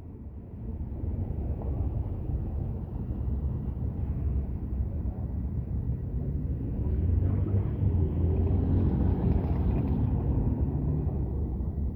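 Rolling thunder: a long low rumble that builds about halfway through and then slowly eases.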